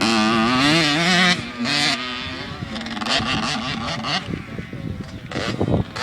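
Motorbike engine revving with a wavering pitch, loud for the first second and a half, then running quieter with the pitch rising and falling.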